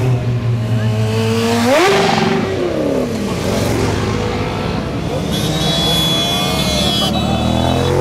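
Motorcycle engines running. One revs up sharply about two seconds in and its pitch then falls back, over the steady running of other engines.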